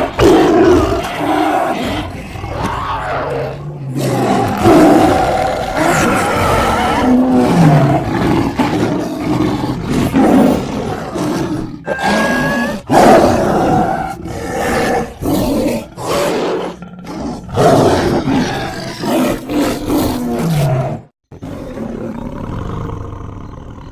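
A string of big-cat roars and snarls, spliced from lion, tiger and sabre-toothed cat recordings, with sudden cuts between the calls; quieter in the last few seconds.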